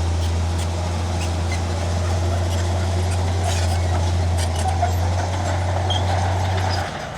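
Heavy diesel engine of earthmoving machinery running steadily with a low drone and scattered light clanks; the drone drops briefly near the end.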